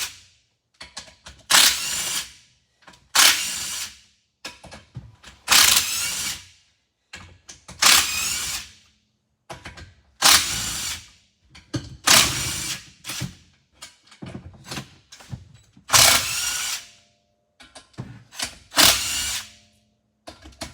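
A handheld power tool run in short bursts, about eight or nine times with brief pauses between, as it backs the bolts out of the bottom of a Briggs & Stratton engine.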